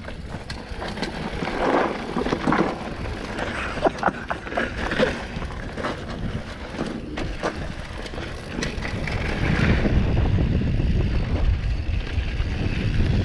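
Mountain bike rolling down a gravel trail, with tyre noise and rapid clicks and rattles from the bike over bumps. A low rumble grows louder near the end.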